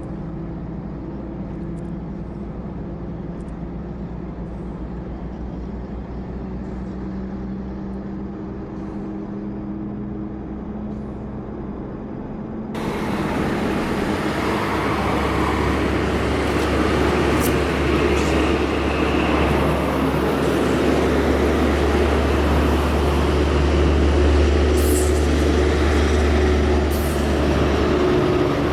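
Double-decker tour bus on a highway: a steady engine hum for the first half, then about thirteen seconds in the sound jumps abruptly to a much louder deep rumble with road noise.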